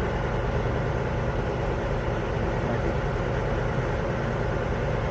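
A vehicle engine idling with a steady, even low rumble.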